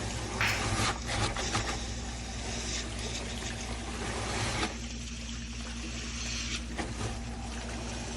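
Wastewater rushing and splashing as a clogged septic line clears, over a steady low mechanical hum. The rush comes in surges, eases about five seconds in, then picks up again.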